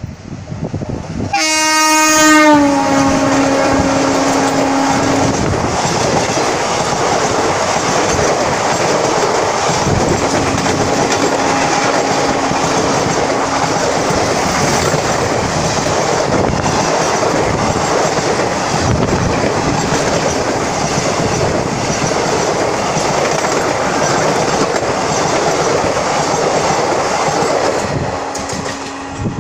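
Express train hauled by an electric locomotive passing at speed, its horn blaring with a slight drop in pitch, then sounding twice more. The coaches rush past with a steady loud clatter of wheels over the rail joints.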